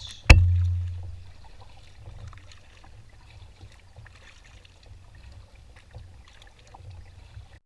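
Canoe paddling on open water: a single sharp knock with a low boom that dies away over about a second, then faint drips and light splashing.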